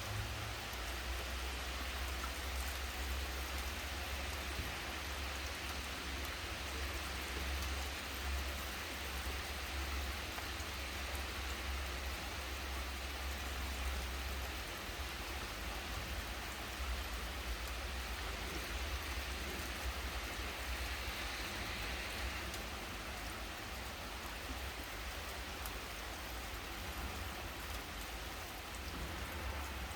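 Steady rain falling, a dense even hiss of drops. A low steady rumble runs underneath, stronger in the first half.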